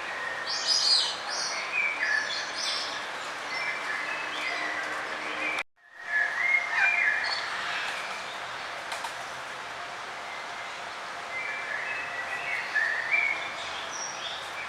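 Birds chirping and calling in short clusters of high notes over a steady outdoor hiss. The sound drops out for an instant about six seconds in, then the chirping resumes.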